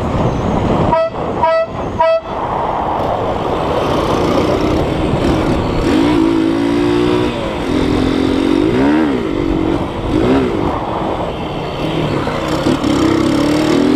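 A loud novelty car horn gives three short, sharp blasts about a second in. From about five seconds in a wavering tone holds and then swoops up and down, over the steady noise of the car driving.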